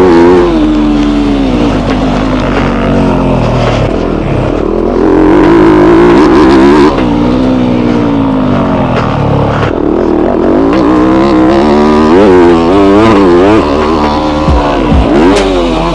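Yamaha YZ250F dirt bike's single-cylinder four-stroke engine revving up and down as it is ridden around a motocross track. The pitch climbs and falls again and again, easing off briefly about four seconds in and again near ten seconds.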